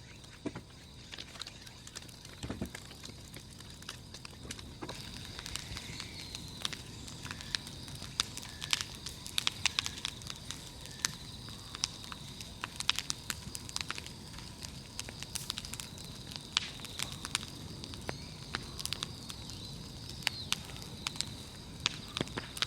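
Large firewood bonfire crackling, with frequent sharp pops and snaps. A steady high-pitched drone runs underneath.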